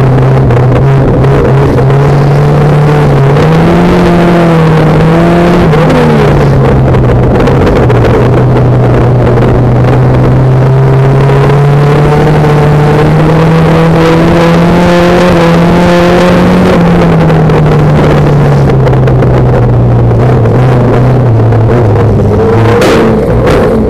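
Banger racing car's engine running loud inside the stripped cabin, its pitch climbing and dropping as the throttle is worked round the shale track. A sharp knock near the end.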